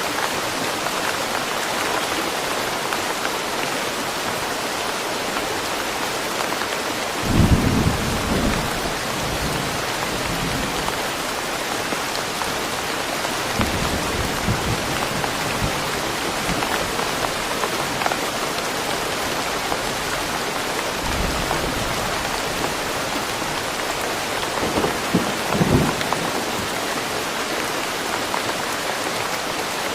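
Steady rain falling in a forest, an even hiss. Low rumbles swell up three times, most strongly about a quarter of the way in and again near the end.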